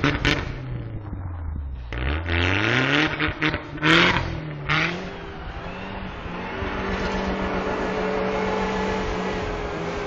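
Toyota Tacoma pickup stuck in deep snow, engine revving with its tires spinning. The revs drop and climb again about two seconds in, with noisy rushes of spinning tires and snow, the loudest about four seconds in. From about six seconds the engine holds a steady rev.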